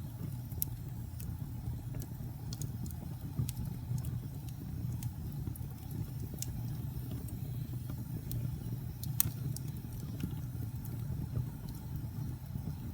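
Fire burning in a fireplace: a steady low rumble of flames with scattered sharp crackles and pops, the loudest about nine seconds in.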